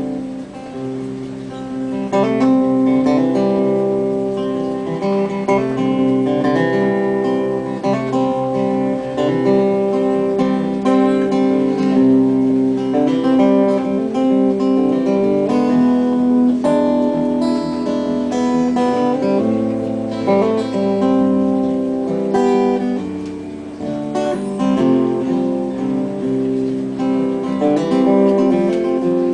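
Acoustic guitar strummed steadily with changing chords, the instrumental lead-in to a song, with no singing.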